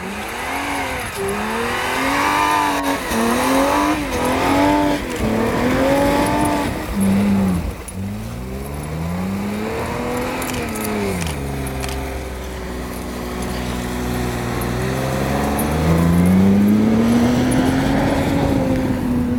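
Mercedes-Benz G-Class AMG engine being revved hard off-road. Over the first several seconds the revs go up and down about once a second. After that come slower swells, a steadier stretch, and a long climb in revs that is held near the end.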